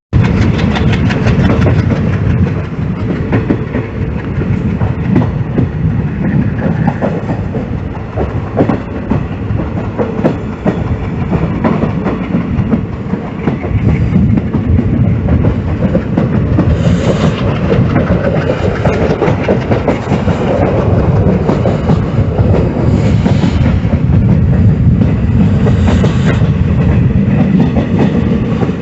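Train running along the track: a steady rumble with the wheels clicking rapidly over the rail joints, and a few brief high-pitched sounds from about the middle onward.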